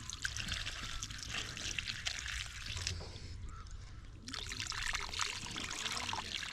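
Water pouring and trickling, stopping for about a second partway through and then starting again.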